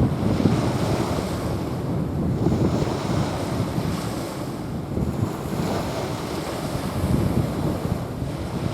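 Small waves washing onto a sandy beach in repeated swells, with wind buffeting the microphone.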